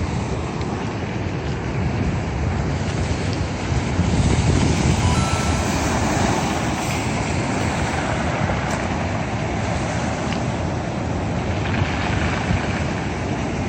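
Steady rumble of wind buffeting the microphone, mixed with the wash of sea surf against the breakwater. There is a louder surge about four seconds in.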